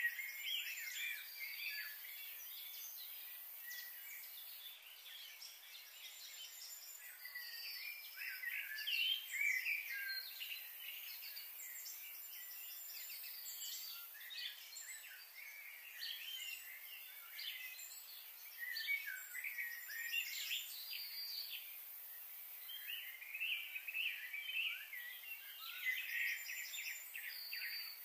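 Several birds chirping and singing at once: many short, high, quick calls overlapping one another, over a faint steady background hiss.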